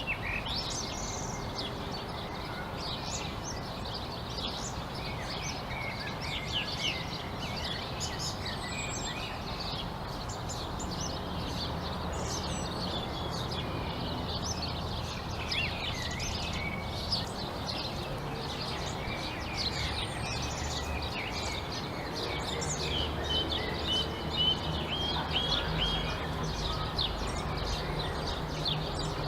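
Many small birds chirping and trilling together in a busy, overlapping chorus, over a steady low background hum.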